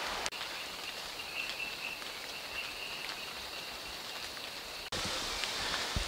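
Steady hiss of light rain falling on forest foliage, with a faint high tone that comes and goes. The sound drops out for an instant twice.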